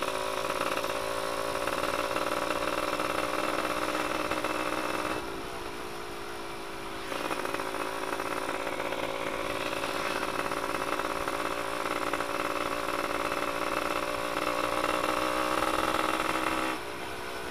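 Yamaha F1ZR two-stroke single-cylinder engine running on the move with the exhaust's silencer insert removed, a loud, open exhaust note. The note holds steady, dropping in level for about two seconds around five seconds in and again briefly near the end.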